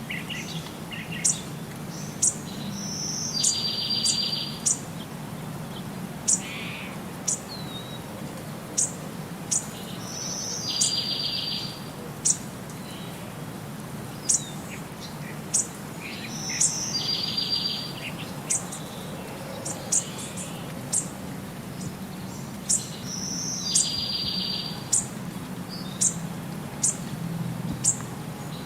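Birds chirping: short high chirps about once a second, with a longer buzzy call recurring every six or seven seconds, over a low steady hum.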